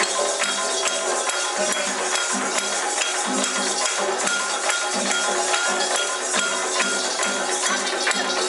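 Live Candomblé percussion music: drums and rattles playing a steady, fast rhythm.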